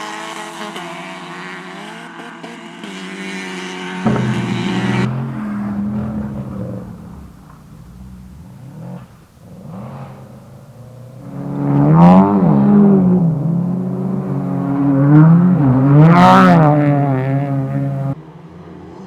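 Race car engines revving as the cars pass, with the pitch rising and falling through throttle lifts and gear changes. One car fades away at the start. After an abrupt change at about 4 s comes a quieter stretch, then louder passes with sharp rev swings about 12 and 16 seconds in, before another abrupt change near the end.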